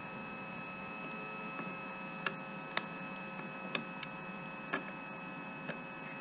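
Steady electrical hum with a few fixed tones, broken by five sharp, light clicks about a second apart, like small tools tapping on a workbench during circuit-board repair.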